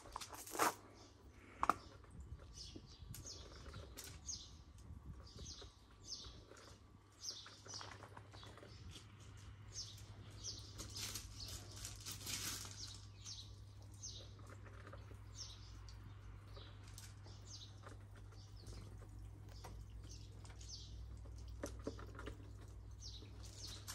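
A small bird chirping over and over, short high falling chirps about one and a half a second, with two sharp crunches in the first two seconds and a faint low hum underneath.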